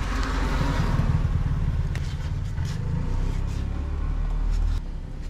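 A motor vehicle's engine running close by: a steady low rumble with some hiss, which drops away sharply just before the end.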